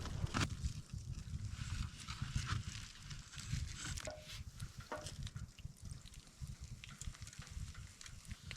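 Blizzard wind buffeting the microphone as an irregular low rumble, with scattered small clicks and crunches over it.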